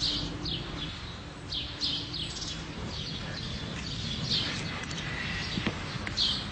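Small birds chirping: a string of short, quick, falling chirps, a few each second, over a steady low background noise.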